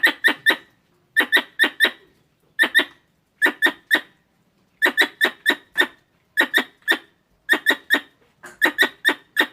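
Wild squirrel calls: short, sharp chirps in bursts of three to five, about one burst a second, with short silences between bursts.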